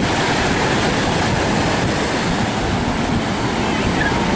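Strong wind blowing across the microphone: a steady, loud rumbling rush, with the surf of a rough sea mixed in.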